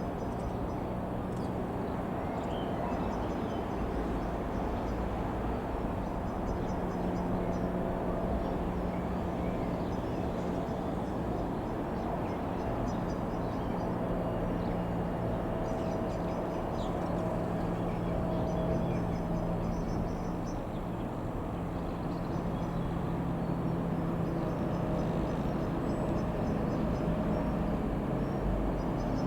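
Single piston engine of an Avid Flyer Mk IV light aircraft running at a steady speed, its drone holding an even pitch.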